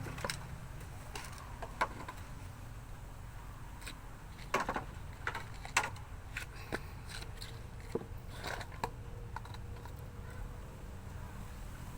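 Scattered light clicks and knocks of small hard objects being handled, over a steady low hum.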